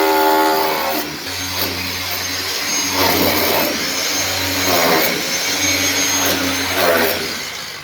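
A motor-driven machine running with a steady low hum and a whine that swells and falls back about four times.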